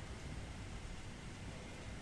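Steady rain during a thunderstorm: an even, unbroken hiss with a low rumble underneath.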